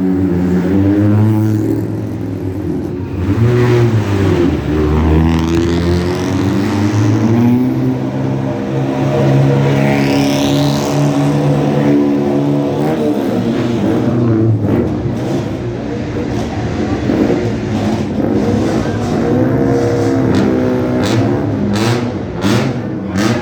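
Sports car engines revving and passing, their pitch rising and falling as they accelerate and lift off. A series of sharp cracks comes near the end.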